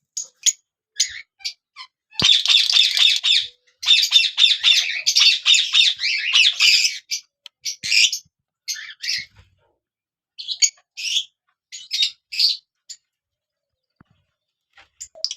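Small parrots chattering and squawking in shrill, high calls. A few short calls come first, then dense chatter for about five seconds from about two seconds in, then scattered calls that thin out near the end.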